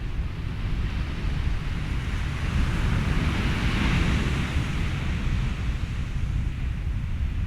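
Ocean surf and wind: a steady low rumble under a hiss of surf that swells and fades once around the middle.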